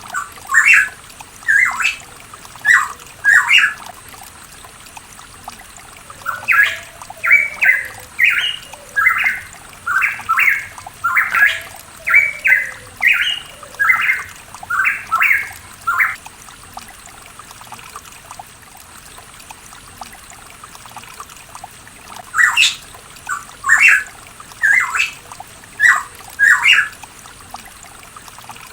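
Pitohui calling in bursts of short, sharp, loud notes: a few near the start, a rapid run of about twenty notes, a pause of several seconds, then another run near the end.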